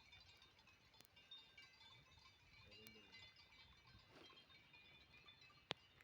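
Near silence: faint outdoor ambience with scattered high chirps, a faint distant animal-like call about three seconds in, and a single sharp click near the end.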